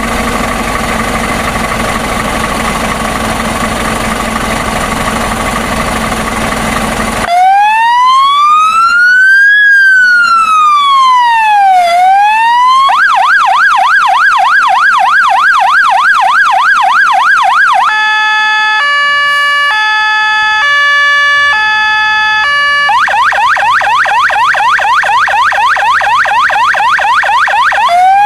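Fire engine's electronic siren running through its tones: after about seven seconds of a loud steady drone, a slow rising-and-falling wail, then a fast yelp, a stepping pattern of alternating notes, the fast yelp again, and a new wail rising near the end.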